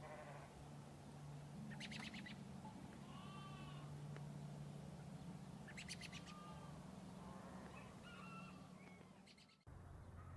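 Faint farmyard animal calls: short arched calls and chirps repeating every couple of seconds over a steady low hum, cut off abruptly near the end.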